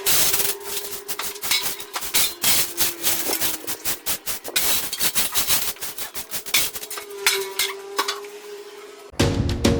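Rapid scraping and clicking of hand-tool work, over a faint steady hum. Music with drums starts near the end.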